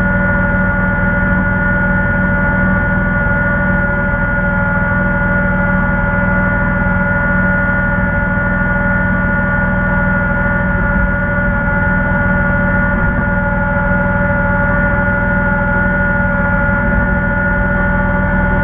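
Kubota BX1800 tractor's three-cylinder diesel engine running at a steady speed, with an even drone and fixed tones throughout.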